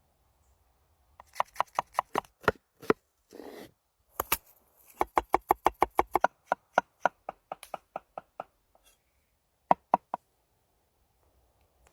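Kitchen knife chopping food on a cutting board: a few single strokes and a brief scrape, then a fast even run of about five chops a second that slows and stops, with two last chops near the end.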